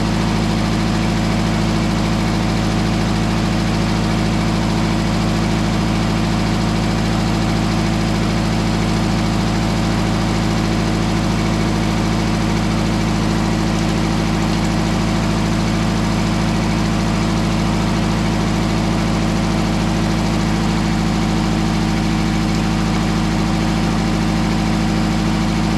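Mobile Dimension sawmill's engine idling steadily, an even running sound that holds the same pitch and level throughout.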